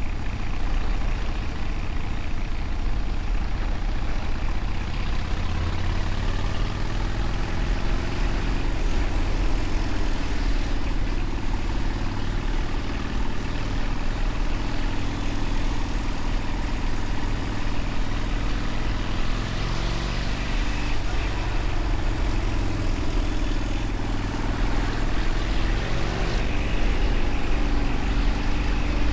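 Motorcycle engine running under way, its note rising and falling several times with the throttle, over a steady rush of wind noise.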